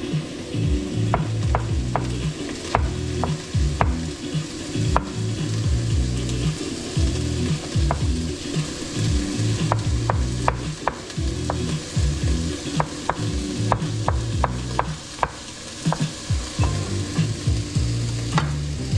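Food sizzling in a hot frying pan while it is stirred, with irregular clicks of the utensil against the pan.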